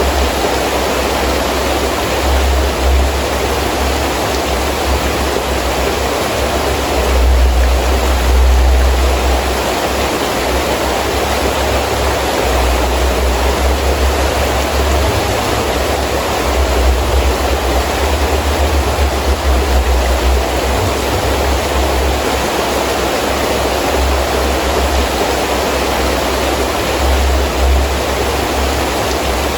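Heavy rain falling steadily, with gusting wind that rumbles low in uneven surges, the strongest about seven to nine seconds in.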